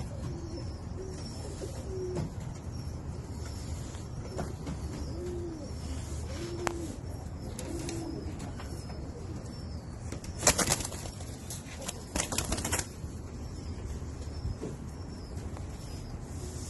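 Pigeons cooing in low, repeated arched calls, with two short bursts of wing flapping a little past the middle.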